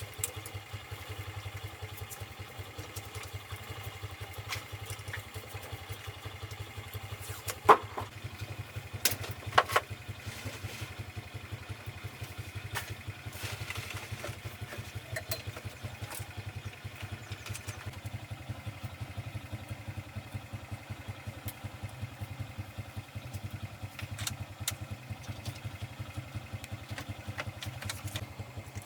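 Truck engine idling steadily, with a few sharp metallic knocks about eight and ten seconds in.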